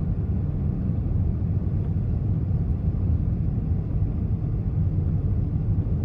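Steady low road and engine rumble heard inside a moving vehicle's cabin while driving.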